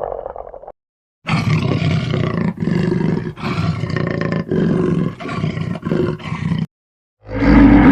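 Loud, rough animal calls in short edited clips: a call fading out, a cut to dead silence, then a run of about six calls a little under a second apart, another brief silence, and a louder call starting near the end.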